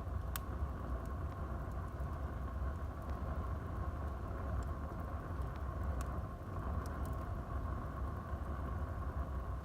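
Wood fire burning in a fireplace: a steady low rumble of flames with scattered sharp crackles and pops, one near the start and several between about four and seven seconds in.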